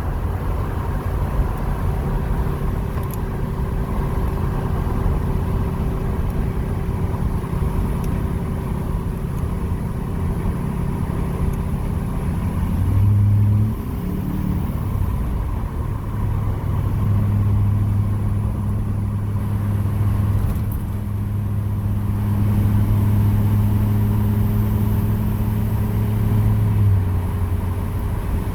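2006 LBZ Duramax 6.6-litre turbodiesel V8 running through a 4-inch MBRP straight-pipe exhaust, heard from inside the cab while driving: a steady low exhaust drone. About halfway through the pitch rises briefly as the engine revs. The drone then settles louder for about ten seconds before easing off near the end.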